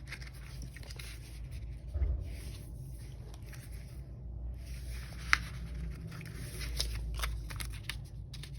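Sticker sheets and planner pages being handled on a desk: soft rustling and scattered light clicks, a sharp tap about five seconds in and a run of quicker clicks near the end, over a low steady hum.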